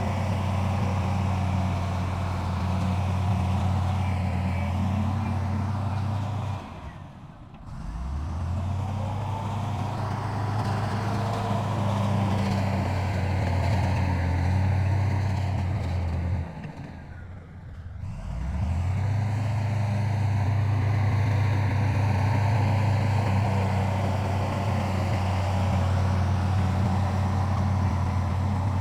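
Diesel engine of heavy earthmoving machinery running steadily. Twice it drops away briefly and comes back with its pitch rising.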